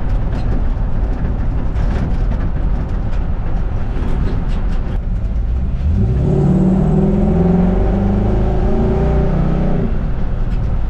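Swapped-in Mustang 5.0-litre V8 of a 1960 Ford F100 pickup under way, with steady engine and road noise. About six seconds in, the engine note rises as the truck accelerates, holds for a few seconds, then drops away near the end.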